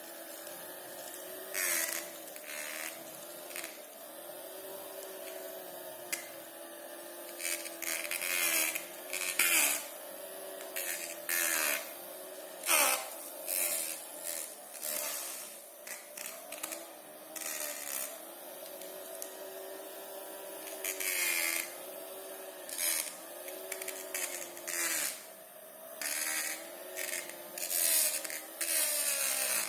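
Small electric motor and fan of a homemade plastic-bottle vacuum cleaner running with a steady hum whose pitch keeps dipping briefly, as the motor's load changes while it sucks. Short scratchy noises come again and again throughout as the nozzle works over the dust.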